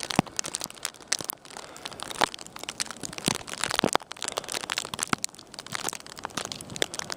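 Plastic bag taped around the camera crinkling and crackling against the microphone in irregular bursts as it is handled.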